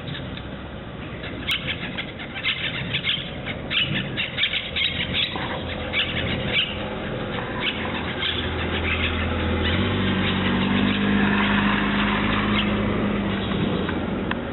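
Small birds chirping in quick, short notes, thinning out after a few seconds, while a motor vehicle's steady engine hum comes up in the second half and becomes the loudest sound.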